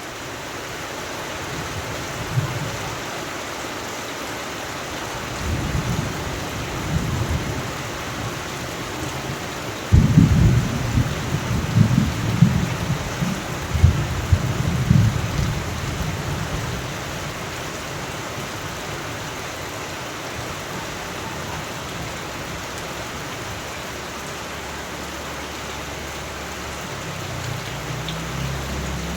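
Steady rain falling, with rolls of thunder: a low rumble about six seconds in, then a louder thunderclap that starts suddenly about ten seconds in and rumbles on for several seconds, and a fainter low rumble near the end.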